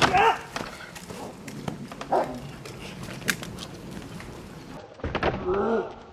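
A dog whining in short pitched cries, one at the start and another about five seconds in, with scattered clicks and scuffs between.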